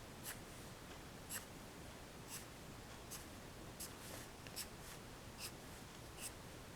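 Pencil sketching on paper: about nine short strokes, unevenly spaced, over a faint steady hiss.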